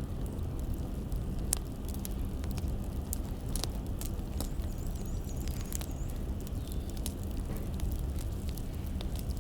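Wood fire crackling: irregular sharp pops and snaps from burning firewood logs over a steady low rumble of the flames.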